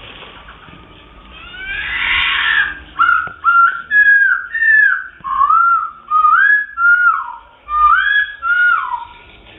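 A songbird singing a run of loud, clear whistled notes, each sliding up or down, about two a second. The song starts about three seconds in after a short rising rush of sound, and stops just before the end.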